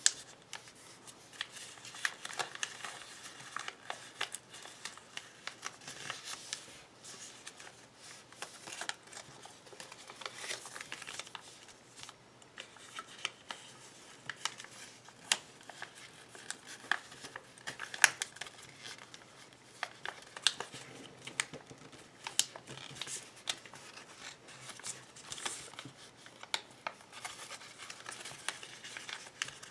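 Origami paper being folded and creased by hand: irregular crisp rustles and sharp little crinkles, with one louder snap past the middle.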